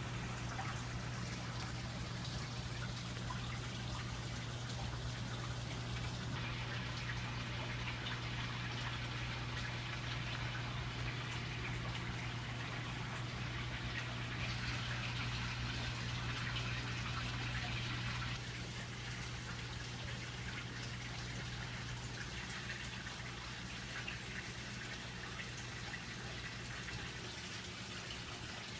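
Reef aquarium water splashing and trickling over a steady low pump hum; the splashing grows a little quieter about two thirds of the way through.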